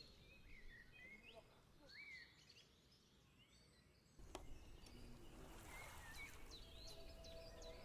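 Faint birds chirping over quiet outdoor background noise. About four seconds in there is a sharp click and the background noise gets louder, with more chirps, and a steady held tone comes in near the end.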